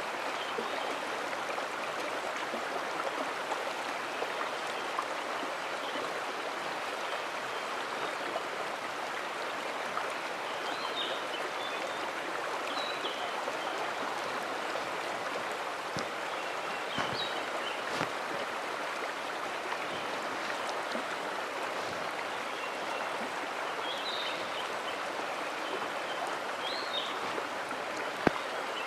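Mountain stream flowing in a steady rush, with a few short high chirps scattered through it and a sharp click just before the end.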